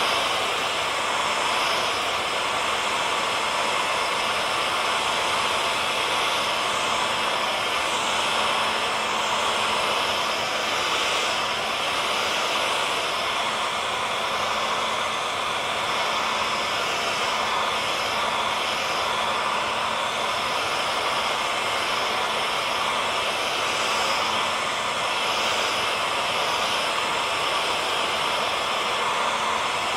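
Hair dryer running steadily: an even, unbroken rush of blown air with a faint motor hum under it.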